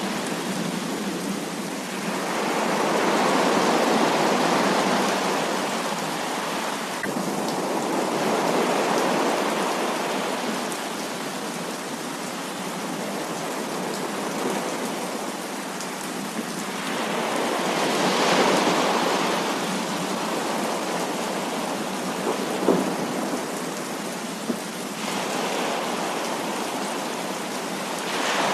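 Heavy rain falling steadily, with slow rolling swells of thunder rumbling up and fading twice.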